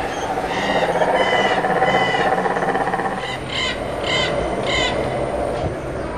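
A bird calling repeatedly in short calls, a run in the first two seconds and four more between about three and five seconds in, over a continuous pulsing background chorus.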